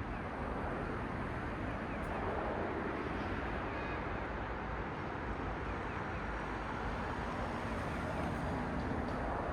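Steady road traffic: cars passing on a city road, the hiss of tyres and engines swelling slightly a couple of times as vehicles go by.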